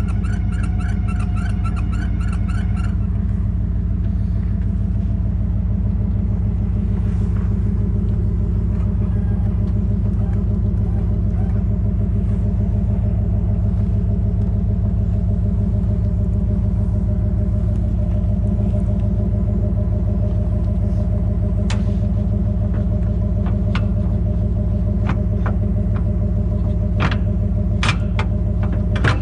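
Pickup truck engine idling steadily with a low rumble. A rapid, evenly pulsing higher tone sounds for the first three seconds, and a few short clicks come near the end.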